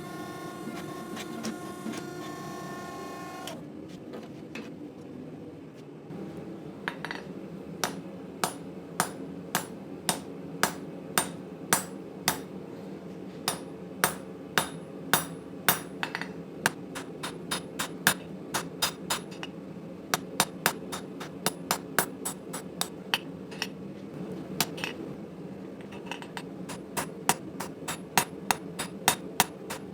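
Hand hammer blows on hot 80CrV2 steel against an anvil, forging the kukri blade: sharp ringing strikes at roughly two a second, starting about six seconds in, over a steady low rumble. At the start a whining mechanical tone cuts off about three and a half seconds in.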